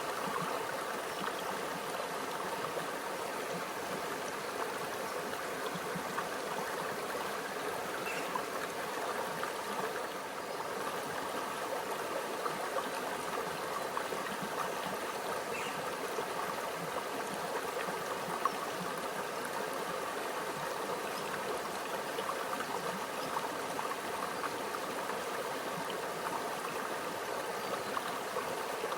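Small stream flowing steadily, water gurgling and trickling over rocks.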